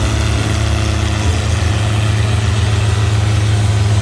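Antique farm tractor engine running steadily with a deep, even drone.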